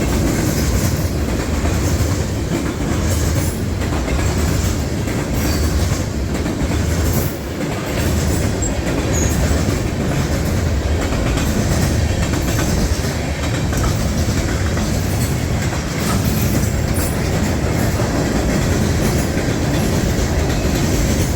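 Freight train cars rolling past at close range: a steady rumble of steel wheels on rail with repeated clicks as the wheels cross rail joints.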